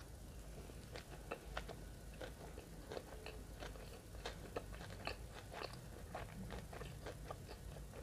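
Close-miked chewing of a mouthful of shrimp nigiri sushi: irregular sharp mouth clicks and smacks, several a second, starting about a second in.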